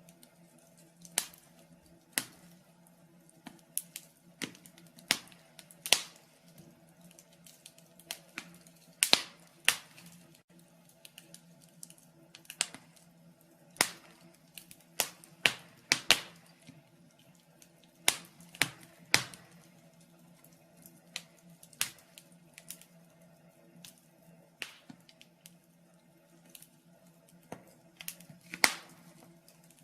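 Wood fire in a fireplace crackling, with irregular sharp pops and snaps, one to two a second, some much louder than others, over a faint steady hum.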